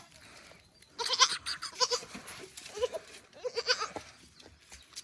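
Goats bleating: several short, quavering bleats one after another.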